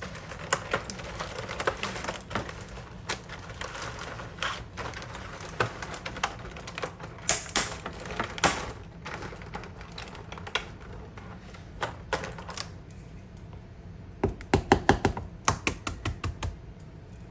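Kitchen utensil clicking and tapping against a mixing bowl while cornbread mix is being prepared, with a fast run of louder knocks about fourteen seconds in.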